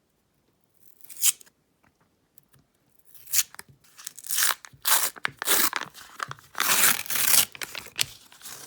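Paper wrapper of a roll of pennies being torn open, in a run of irregular ripping and crinkling tears that starts about three seconds in, after one short sound about a second in.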